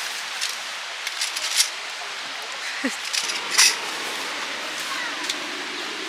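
A few light metallic clicks and clinks of camping gear being handled, over a steady hiss of strong wind.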